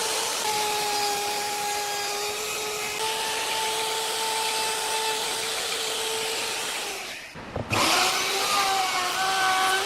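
Electric power tool motor running with a steady whine. About three quarters of the way through it briefly drops out, then comes back louder and wavering in pitch, as if under load.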